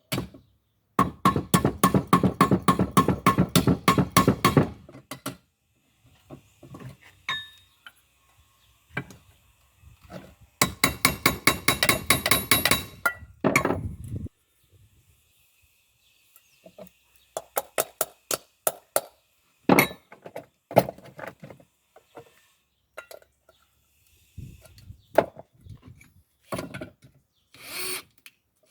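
Two runs of rapid, closely spaced knocks, then scattered single knocks and clicks: hand-tool work on a pot while a handle is fitted.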